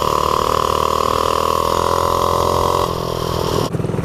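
Predator 212cc single-cylinder four-stroke mini bike engine running at steady high revs under way, the throttle eased off about three seconds in.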